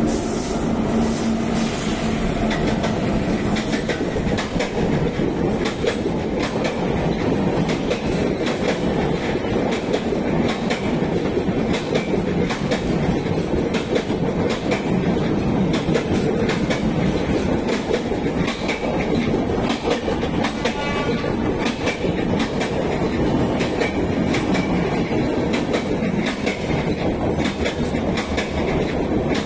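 An express train running through a station at speed, its passenger coaches rushing past close by. The wheels clatter over the rail joints in a constant stream of sharp clicks.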